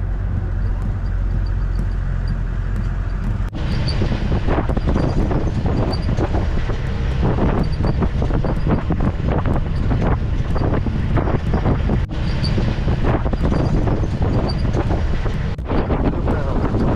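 Safari game-drive vehicle driving on a rough track: steady engine rumble with bumps and jolts, and wind buffeting the microphone. About three and a half seconds in, the sound turns rougher and gustier.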